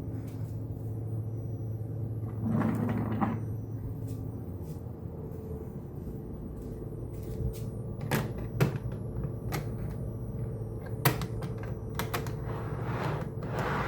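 Model train layout running: a steady electric hum, two short rushing hisses, and a scatter of sharp clicks about two-thirds of the way through.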